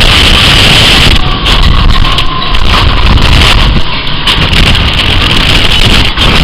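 Blizzard wind blowing hard across the microphone: a loud, constant rumble with a rushing hiss over it.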